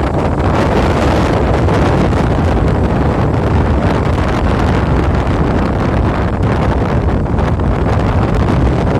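Strong sea wind blowing across the microphone: loud, steady buffeting with a heavy low rumble.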